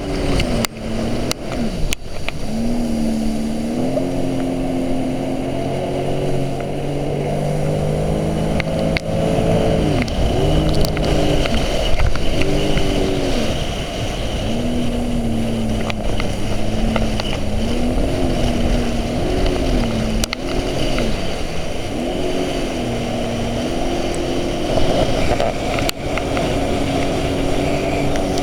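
Jet ski engine running under way. Its pitch holds steady for long stretches and dips and rises again several times, as the throttle is eased and reopened, over a steady rushing noise.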